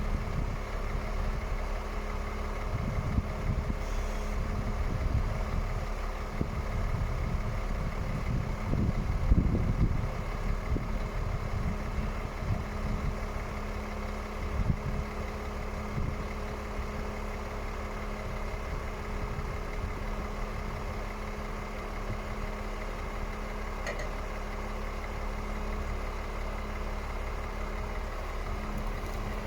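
Scania R450 truck's 13-litre inline-six diesel idling steadily, with gusts of wind noise rising and falling over it.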